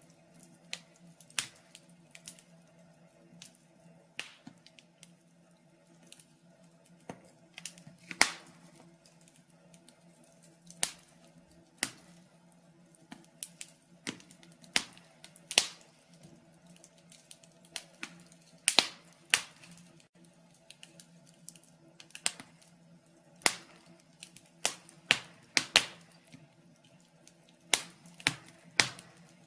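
Wood fire in a fireplace crackling, with irregular sharp pops, some single and some in quick clusters, over a faint steady low hum.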